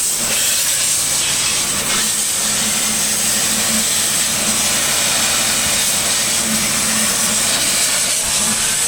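High-pressure water jet spraying steadily from a washer onto a baler, a loud continuous hiss, with a low steady hum underneath.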